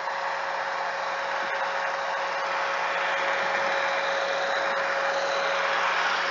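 A machine running steadily: an even whooshing hiss with a held humming tone, slowly growing a little louder.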